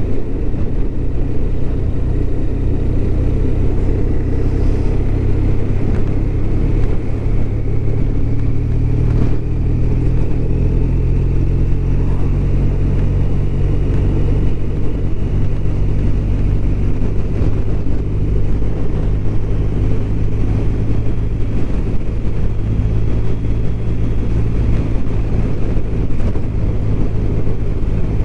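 BMW R1200RT's boxer-twin engine running steadily under way, mixed with wind and road noise.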